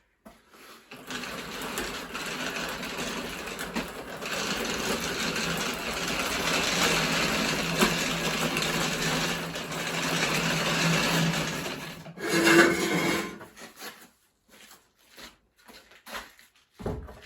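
A machine running with a steady whirr and hum for about eleven seconds, then a brief louder burst before it stops.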